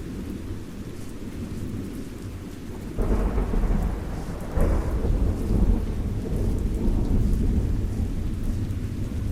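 Thunderstorm: steady rain with rolling thunder. A deep rumble of thunder starts suddenly about three seconds in, swells again a moment later, and keeps rolling.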